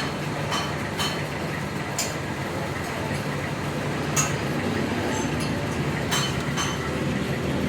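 Light metallic clinks, about six of them at irregular intervals, over a steady low hum.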